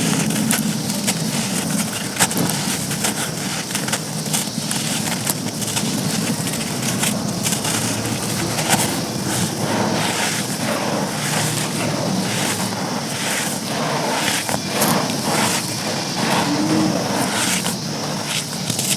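Dry, brittle chunks being crumbled and crushed by hand: a dense, continuous run of crunching and crackling with many small sharp snaps.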